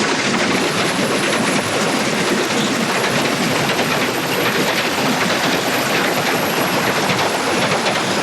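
Train running at speed: a steady, loud rumble and rattle of wheels on the rails.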